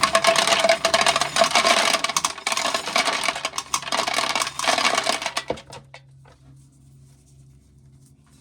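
Corn being shelled, with kernels clattering in a rapid rattle into a container. The rattle stops about five and a half seconds in, leaving only a faint low hum.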